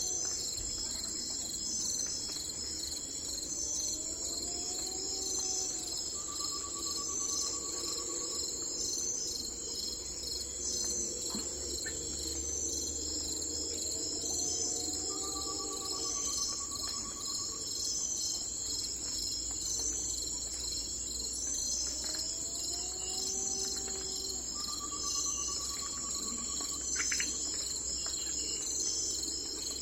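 Crickets and other insects chirping in a steady, pulsing chorus, with a short trill and a lower rising-and-falling call repeating about every seven to eight seconds.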